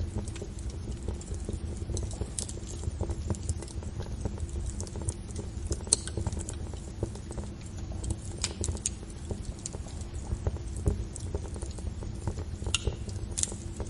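Fire crackling: a steady low rumble of the flames with irregular sharp pops and snaps, a few louder pops standing out.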